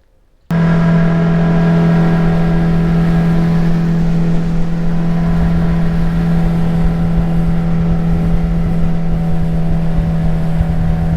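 Jet boat's outboard jet-drive motor running at a steady speed with a constant, even pitch, coming in abruptly about half a second in.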